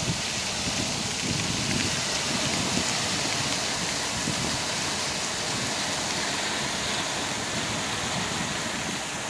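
Stormy surf on a beach in strong wind and rain: a steady, dense wash of breaking waves and rain, with uneven low rumbles of wind on the microphone.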